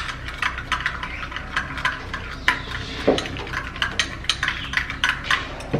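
A spoon stirring a mixture in a bowl, clinking and scraping against the side in quick, uneven taps, with one duller knock about three seconds in.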